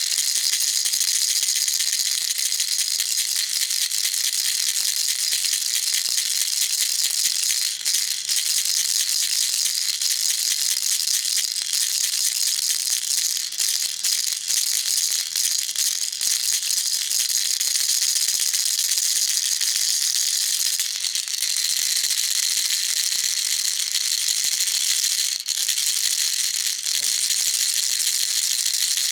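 Baby rattle shaken steadily and without pause, its beads making a dense, continuous high-pitched rattle.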